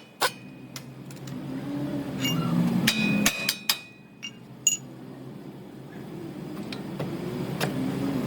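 A handful of sharp knocks and clicks spaced irregularly over a low hum, with a brief thin squeak near the middle.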